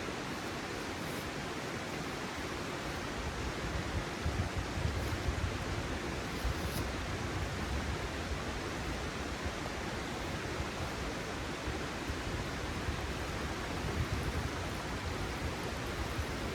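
Steady outdoor rushing noise with no distinct events, swelling into a low rumble about four to seven seconds in and again briefly near the end.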